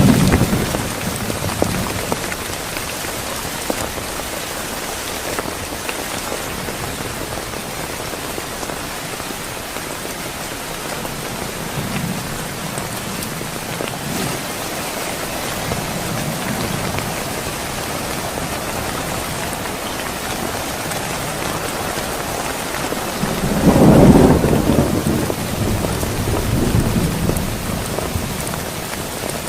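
Steady heavy rain hissing, with thunder rumbling: a rumble dying away in the first second or two, fainter rolls near the middle, and a loud thunderclap rolling for a few seconds near the end.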